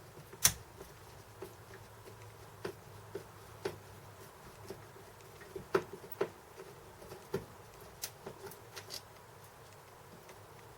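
Scattered small clicks and taps from a Phillips screwdriver working at the screws of a car's interior light housing, against plastic trim. The sharpest click comes about half a second in, with a cluster of lighter ones in the middle and later part.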